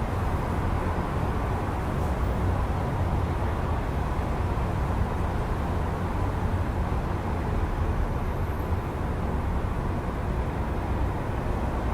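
Steady low hum of distant city traffic heard through an open window, even throughout, with no single vehicle standing out.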